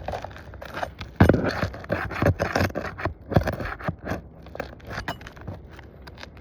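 Asphalt roof shingles being lifted and scraped by hand work, an irregular run of scrapes and knocks with the loudest about a second in.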